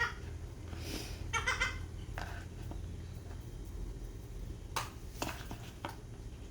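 A seagull calling once, a short pitched mewing call about a second in, followed later by a few faint clicks.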